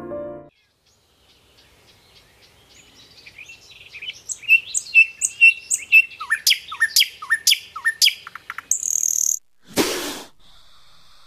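A small songbird singing: a quickening run of sharp whistled notes that builds over several seconds. Near the end comes a short loud hiss from a king cobra, then a fainter steady hiss.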